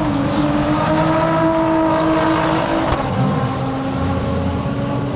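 A drag-racing engine running at high revs down the strip, its pitch sliding slowly downward and changing about three seconds in.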